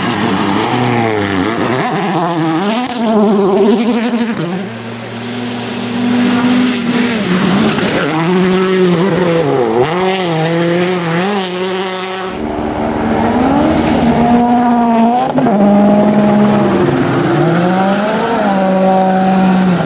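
World Rally Car engines, turbocharged four-cylinders, revving hard as rally cars drive a stage: the pitch climbs and drops sharply again and again with gear changes and lifts, with steadier stretches held between.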